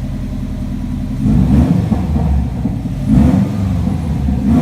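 Subaru WRX hatchback's flat-four boxer engine with the catalytic converter removed, running through an open straight-pipe exhaust: idling, then blipped three times, about a second in, around three seconds in, and near the end.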